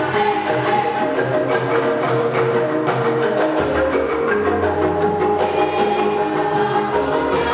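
Traditional Javanese ensemble music led by struck xylophone-like mallet instruments, playing a dense, steady pattern of notes over a low pulsing bass.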